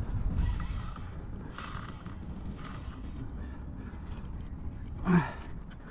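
Fishing reel's drag buzzing in three short bursts as a large hooked fish pulls line off against it. A brief, louder sound with a rising pitch comes about five seconds in.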